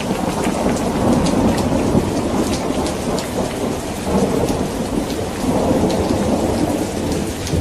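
Steady heavy rain with many distinct drops, under rolling thunder that rumbles in long low swells.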